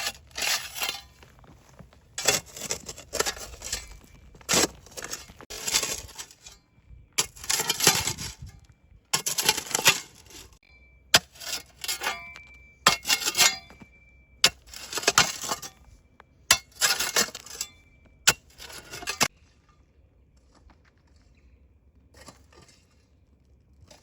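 Kitchen work: a series of short scrapes and clinks of utensils against dishes, some with a brief metallic ring, stopping about 19 seconds in and leaving only faint room sound.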